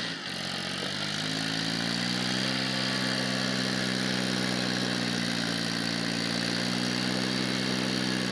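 Eicher 380 tractor's diesel engine revving up over about two seconds and then held steady at high revs, as the loaded tractor tries to pull free of the river.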